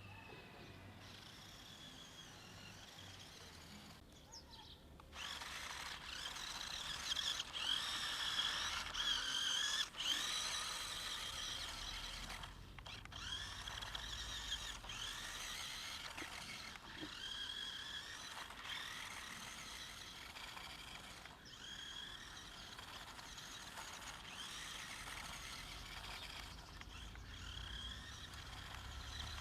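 Toy remote-control car's small electric motor and gears whining, the pitch rising and falling as it speeds up and slows, with a couple of brief stops.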